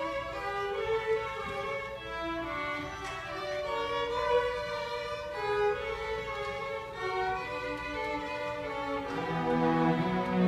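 String ensemble playing, with violins carrying the melody; lower strings come in strongly near the end.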